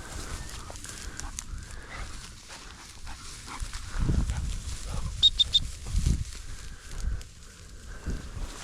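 Hunting dog working the cover, with faint wavering whine-like calls. Low rumbling thumps come about four and six seconds in, and three quick high beeps sound just after five seconds.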